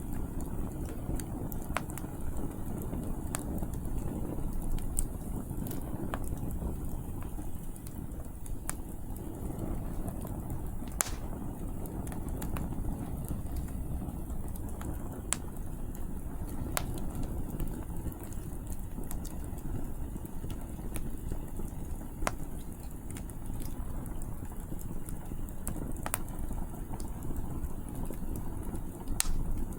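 Firewood crackling and popping in an open campfire, sharp snaps every second or two with a stronger pop about eleven seconds in, over a steady low rush of wind and flame.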